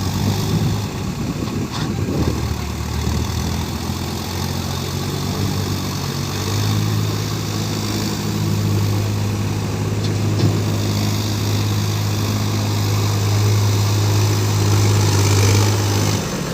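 Heavy diesel engine of a tractor or JCB backhoe running steadily, its note growing louder and steadier from about six seconds in.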